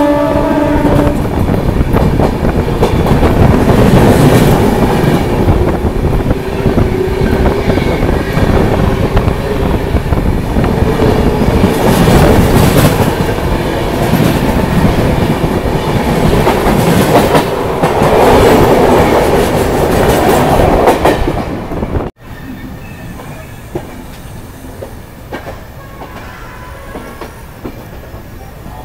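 An Indian Railways train passes at speed on the adjacent track: its horn ends about a second in, followed by loud, continuous wheel rumble and clickety-clack over the rail joints. About three-quarters of the way through it cuts off abruptly, leaving a much quieter, steady rail noise.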